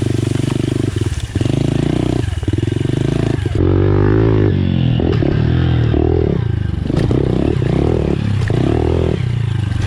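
Pit bike engine running steadily, then revving up and down over and over from about three and a half seconds in as the bike is ridden.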